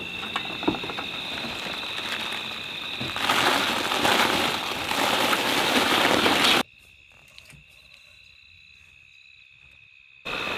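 Rain pattering in bushland under a steady high-pitched insect drone, with scattered small drips. About three seconds in a louder rush of noise swells for a few seconds. Then the sound cuts off abruptly to faint, leaving only the drone, and comes back near the end.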